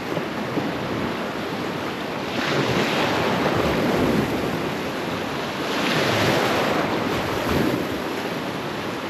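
Gulf surf breaking and washing, with wind buffeting the microphone. The wash swells louder about two and a half seconds in and again around six seconds in.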